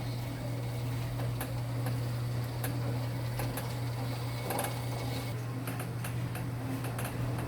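Enxuta Junior 2 kg mini washing machine running, its electric motor giving a steady low hum with irregular clicks and ticks on top.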